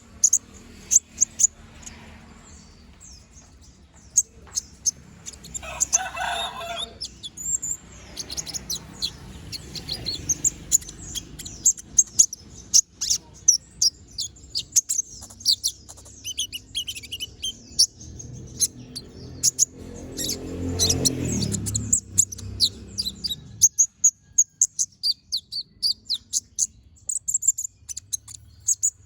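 Kolibri ninja (konin), a small sunbird, singing non-stop: dense runs of rapid, sharp high chirps and trills. A low rumble swells up and cuts off suddenly a few seconds before the end.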